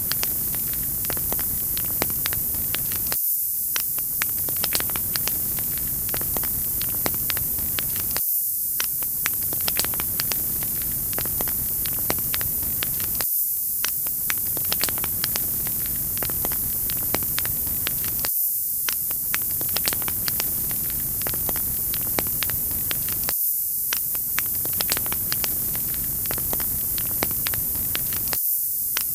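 Crackling wood fire: a steady hiss with frequent sharp little pops and snaps. The same stretch of crackling repeats about every five seconds.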